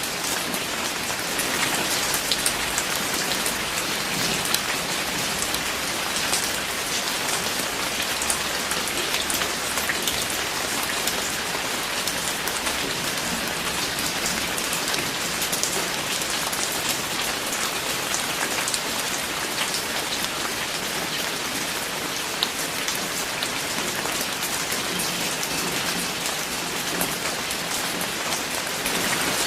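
Steady rain falling on a surface, with many distinct drops ticking through an even hiss.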